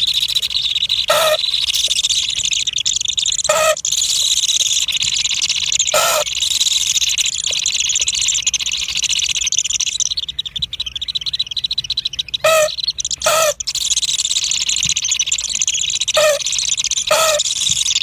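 Short bird calls at a nest, about seven of them spaced one to three seconds apart, over a steady high-pitched hiss.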